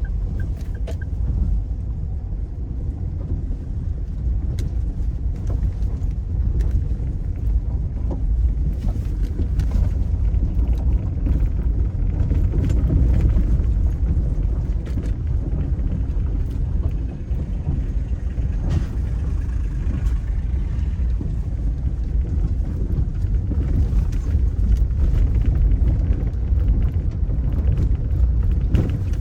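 A car driving, a steady low rumble with occasional knocks and rattles.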